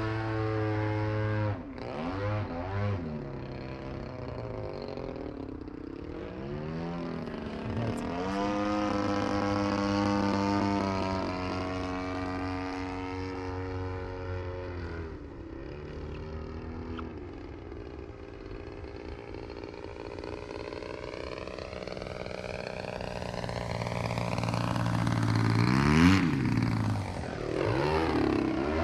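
Single-cylinder two-stroke DLE-35RA gas engine on a 74-inch Extreme Flight Laser RC aerobatic plane in flight, the throttle cut back and opened up again so the pitch falls and rises through the manoeuvres. Near the end the plane makes a loud close pass, its engine note dropping sharply in pitch as it goes by.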